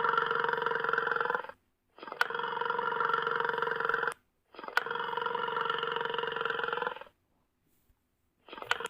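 A sustained, steady animal call, the same call played three times in a row, each about two seconds long with a short gap between and a click at its start.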